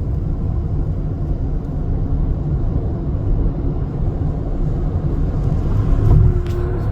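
Heavy truck running on the road: a steady low rumble of engine and road noise, swelling briefly about six seconds in.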